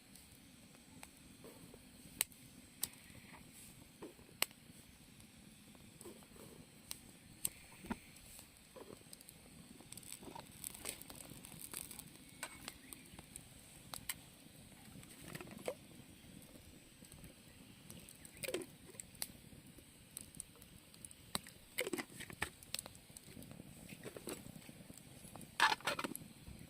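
Wood campfire crackling, with scattered sharp pops at irregular intervals and a louder crackle near the end.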